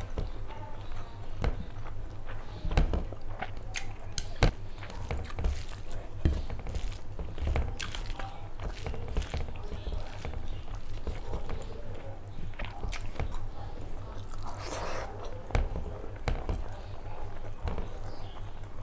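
A person eating rice and curry by hand: wet chewing with irregular mouth clicks and smacks, and fingers squishing rice and curry together on a plate.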